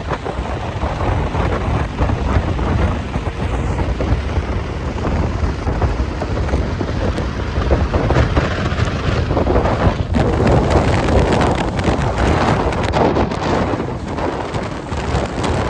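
Storm wind gusting hard across the microphone, with rain: a loud, fluctuating rush over a deep rumble.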